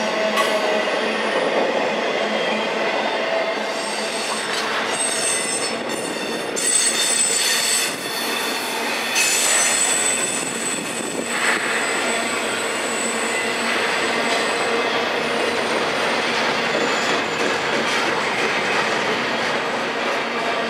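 Freight train cars rolling past, with steel wheels squealing in thin high tones over the continuous rumble of the train. The squeal is strongest between about four and eleven seconds in.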